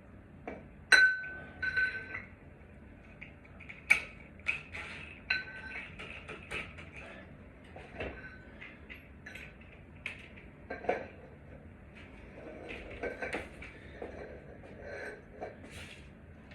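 Scattered clinks, clicks and taps of small hard objects being handled. The loudest is a sharp clink with a short ring about a second in.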